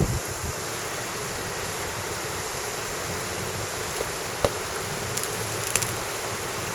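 Steady rush of falling water from a waterfall, with a few small knocks about four and a half and six seconds in.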